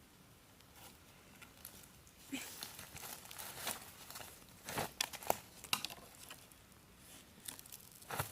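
Irregular crinkling and crackling with scattered sharp clicks, as of something being handled or torn, busiest from about two to six seconds in.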